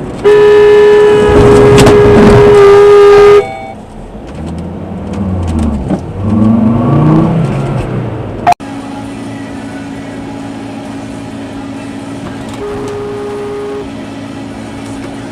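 A car horn blares, one loud steady blast of about three seconds, followed by an engine revving up and down. After a sudden break, a steady engine drone runs on, with another shorter horn note about a second long.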